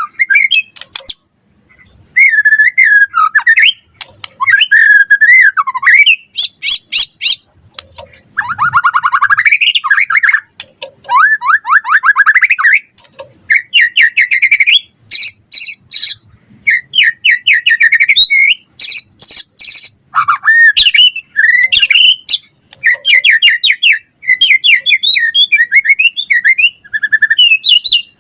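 White-rumped shama singing continuously: loud, varied whistled phrases, fast trills and up-and-down sweeps with only short pauses between them.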